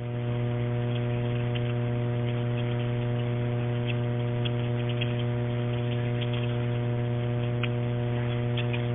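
Steady electrical hum on an open telephone line, with faint scattered clicks.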